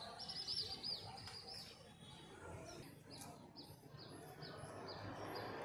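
Birds chirping: a quick flurry of high chirps in the first two seconds, then a steady run of single high chirps, a little under three a second.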